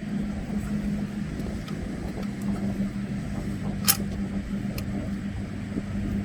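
A steady low machine hum carries on throughout, with one sharp click about four seconds in as parts are handled.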